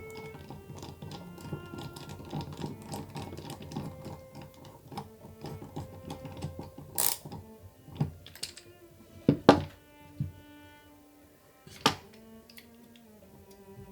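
Small hard parts of a model engine kit clicking and knocking as they are handled and fitted together, with several sharp louder clicks in the second half, over background music.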